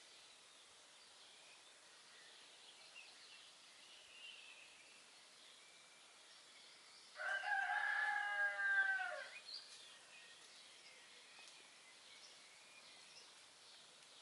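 A rooster crows once, a loud call of about two seconds that starts midway through and drops in pitch as it ends. Faint songbird chirps run underneath.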